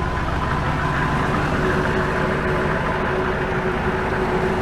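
Chevy 6.5 L turbo diesel idling steadily, warmed up and running clean after about half an hour. A fast even beat is heard under a faint steady whine.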